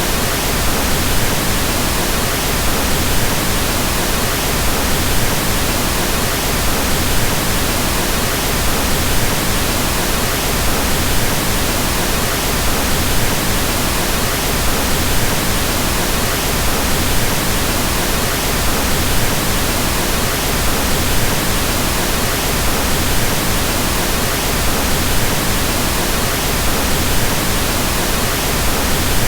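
Pink noise: a steady, even hiss spread across the whole range, with more weight in the low end, unchanging throughout.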